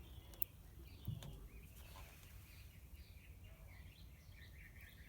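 Faint bird chirping, building into a quick run of short repeated chirps in the second half, with a sharp click and a soft low knock near the start.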